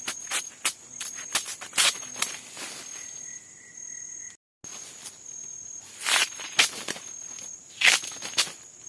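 Forest insects trilling steadily at a high pitch, over irregular sharp knocks and rustles close by. The sound cuts out briefly about halfway through.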